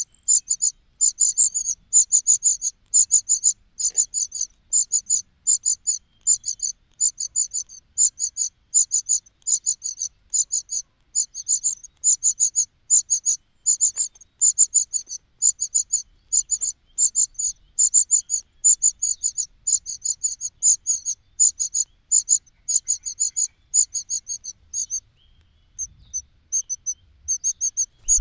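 Nestling birds begging for food: rapid, high-pitched cheeping in quick clusters about two a second, thinning to scattered single notes near the end.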